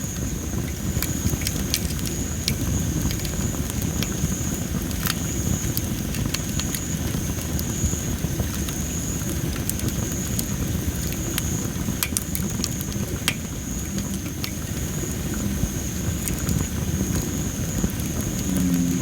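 Wood fire of dry masaki (Japanese spindle tree) firewood crackling, with many sharp pops over a low rumble and a steady high tone. Near the end an American bullfrog gives low, deep calls.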